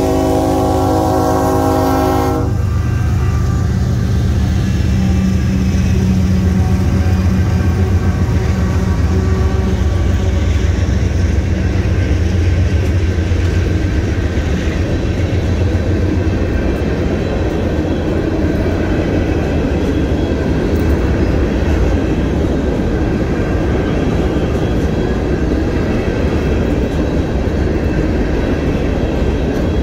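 Norfolk Southern diesel locomotive's air horn sounding as it reaches the grade crossing, cutting off about two seconds in. Then the locomotive's low engine rumble and the steady rolling of a long string of Herzog hopper cars on the rails.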